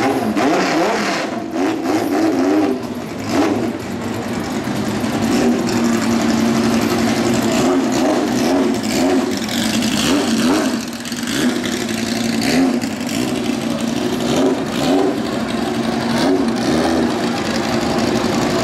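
Drag-racing car's engine idling with an uneven, wavering beat, with a few short throttle blips.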